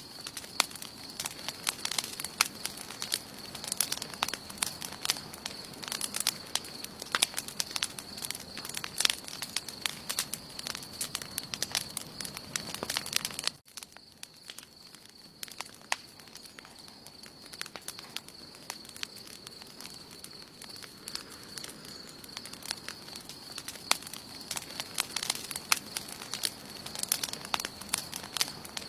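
Campfire burning: wood crackling and popping in quick irregular snaps over a steady high hiss. About fourteen seconds in the level drops suddenly and the pops turn sparser, growing busier again near the end.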